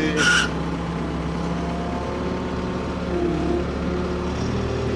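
Ford P-42 excavator engine running steadily as the machine is driven a little closer.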